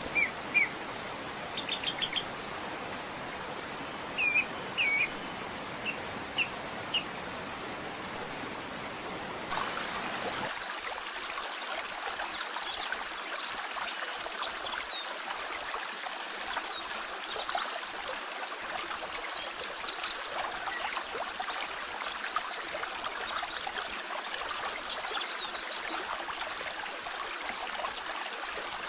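Small birds singing in short chirps over the steady rush of a mountain stream. About ten seconds in, the sound cuts to a closer, louder stream, with birdsong fainter behind it.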